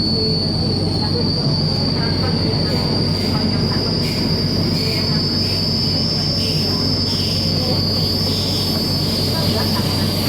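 MTR K-stock metro train running on the line: a steady high-pitched whine that rises a little midway and eases near the end, over continuous low rumble from the wheels and running gear.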